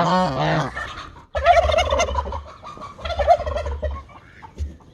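Domestic geese and other poultry calling: a bending honking call in the first second, then a short break and two stretches of rapid, broken calls.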